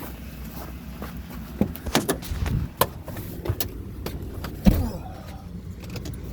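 Car door shutting with one loud thump, after a few scattered clicks and knocks of the door being handled, over a low steady hum.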